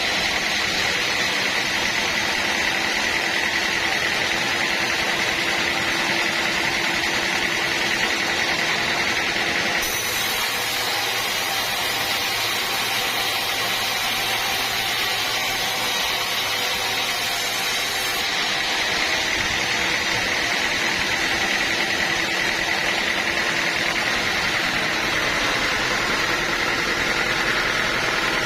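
Band sawmill running steadily: a continuous mechanical noise with a steady high tone over it, changing only slightly about ten and eighteen seconds in.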